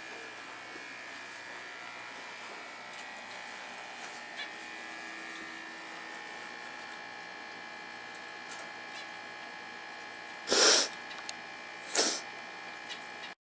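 Steady electrical hum made of several fixed tones, like a mains-powered light or ballast. Two short, loud hissing bursts come near the end, the first about ten and a half seconds in.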